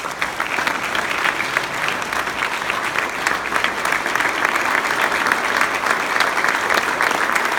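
Audience applauding steadily, dense clapping that swells in just after the last words of a speech.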